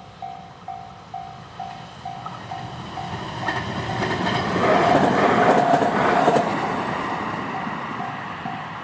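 Japanese level-crossing warning bell ringing about twice a second as a train passes over the crossing. The train's rumble and wheel clatter swell to a peak about five to six seconds in and then fade, while the bell keeps ringing.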